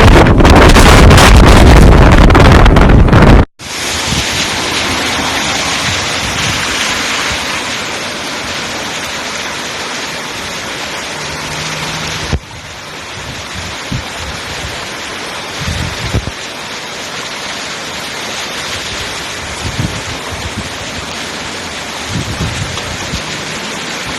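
Typhoon wind buffeting the microphone, very loud, for the first three and a half seconds, then cutting off abruptly to a steady hiss of heavy typhoon rain, with a few faint low thumps.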